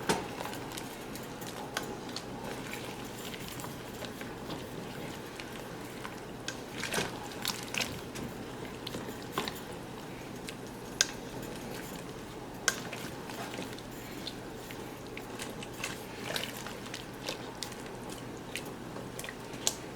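Thick red peas soup simmering in a pot while a big spoon stirs through it, with a few sharp clinks of the spoon against the pot.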